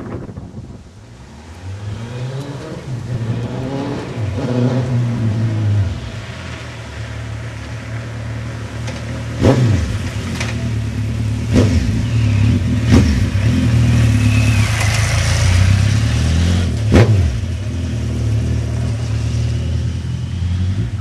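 Suzuki GSX1400's inline-four engine running through Yoshimura aftermarket exhausts, its note rising over the first few seconds and then holding strong, with a few sharp cracks through the middle of the run.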